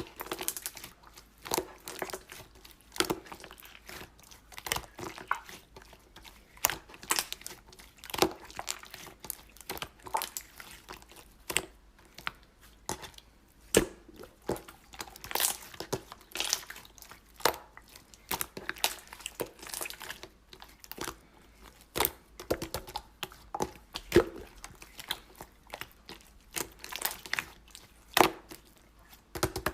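Slime being squished and stretched by hand, giving an irregular run of sticky clicks and pops, several a second.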